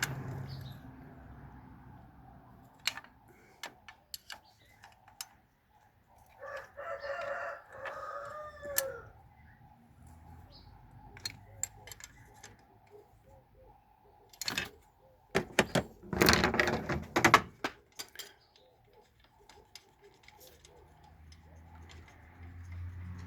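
Sharp clicks and clinks of a spanner on metal while a 13 mm bolt is worked loose, with a dense run of rapid clicking about 16 seconds in. A rooster crows once in the background, about 7 seconds in.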